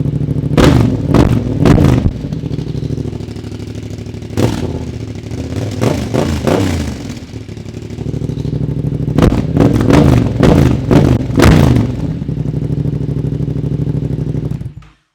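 Yamaha Ténéré 700's 689 cc parallel-twin engine idling through a full Dominator MX2 exhaust fitted with an aftermarket dB killer with end cap, blipped repeatedly: three quick revs, a single rev, a longer rev that rises and falls, then a run of about five quick revs. The sound cuts off suddenly near the end.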